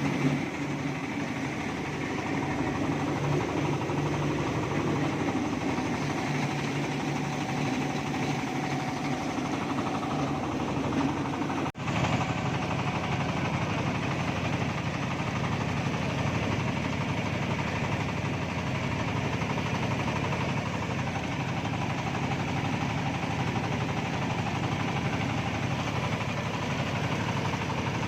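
Engine-driven mobile rice huller running steadily. It drops out for an instant about twelve seconds in, then runs on.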